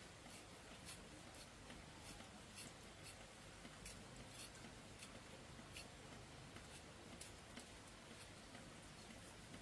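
Near silence, with faint, irregular small ticks and clicks scattered throughout.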